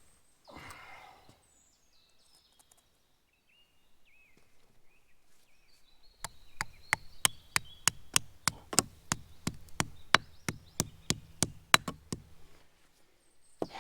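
A rapid series of about twenty sharp knocks, roughly four a second, starting about six seconds in and stopping about a second before the end, over a low steady hum.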